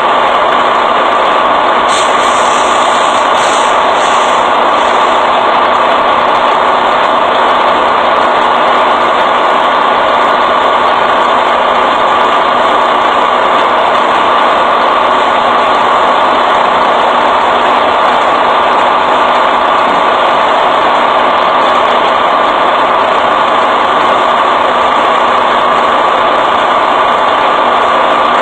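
A vehicle engine idling steadily, with a brief hiss about two seconds in.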